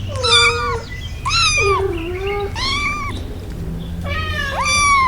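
A cat meowing four times, each meow drawn out and bending in pitch.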